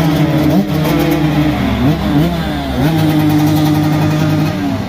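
Motocross dirt bikes racing on a track: engines revving hard, their pitch climbing through the gears, holding at high revs, then dropping and climbing again. More than one bike is heard at once.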